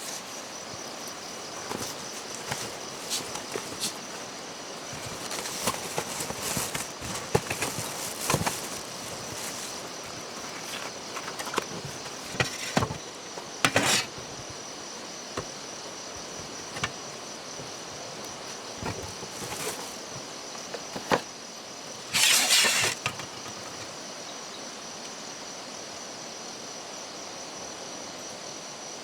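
Steady high-pitched drone of insects, with scattered clicks, knocks and rustling through the first half, and a harsh noisy burst of about a second some three quarters of the way through.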